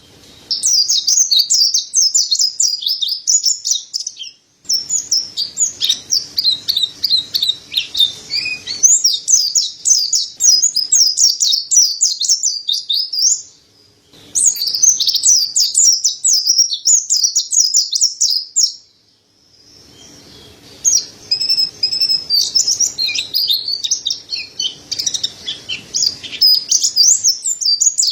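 Mountain white-eye singing: fast runs of high, thin chirps and trills in bouts of several seconds, with short pauses about four, thirteen and nineteen seconds in.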